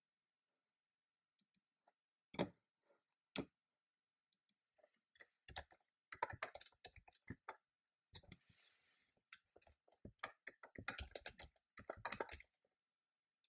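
Typing on a computer keyboard: a couple of separate keystrokes early, then fast runs of clicking keystrokes in bursts through the second half.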